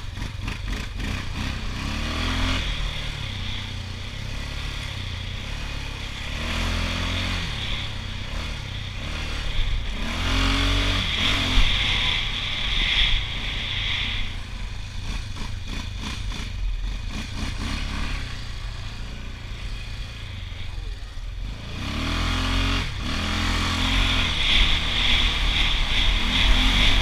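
Honda TRX680 ATV's single-cylinder four-stroke engine running while riding, revving up and dropping back several times as the throttle is opened and closed, over a steady low rumble.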